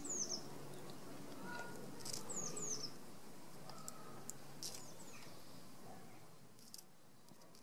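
Small birds calling outdoors: short, high chirps that sweep downward, several pairs of them in the first three seconds, then fewer. Beneath them is a steady faint background hum.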